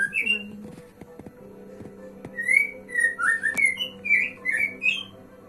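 Male white-rumped shama singing: a run of clear whistled notes sliding up and down, densest in the middle, with a few sharp clicks between them. A faint steady hum runs underneath.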